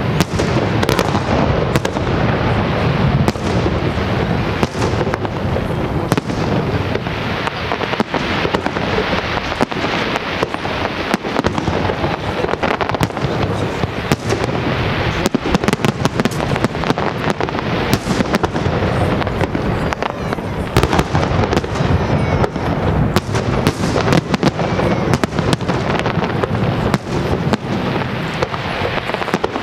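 Aerial firework shells bursting in rapid succession: a dense, unbroken run of sharp bangs over steady crackling.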